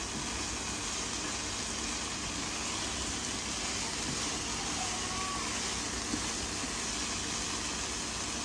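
Tofu frying in hot oil in a pan: a steady, even sizzle.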